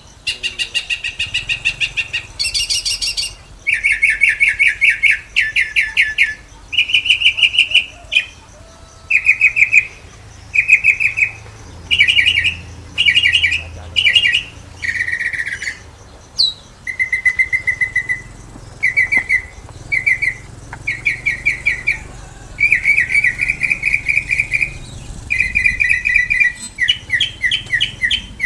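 Caged market birds calling loudly in bursts of rapid, chattering high notes. Each burst lasts about a second and they follow one another every second or two.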